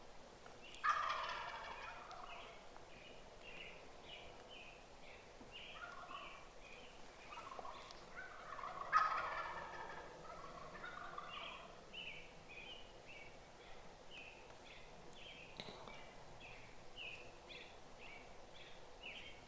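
Wild turkey gobbling twice, with loud rattling gobbles about a second in and again about nine seconds in. Between them runs a series of short, higher bird chirps.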